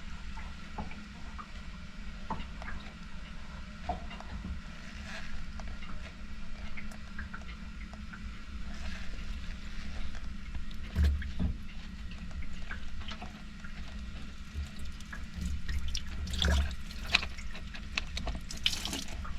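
Descaling solution being poured into a boat engine's cooling-water hose, trickling and splashing with small clatters of handling; the liquid is barely going in, the sign of a cooling passage blocked with salt.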